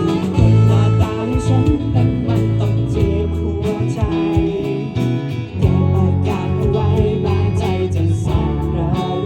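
A band playing a pop song, with guitar over a bass line and a steady drum beat.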